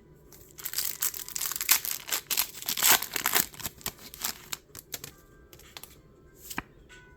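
Pokémon card blister-pack packaging, plastic and foil wrapper, crinkling and tearing as it is opened: a dense run of crackles for about four seconds, then a few scattered crinkles and one sharper crackle near the end.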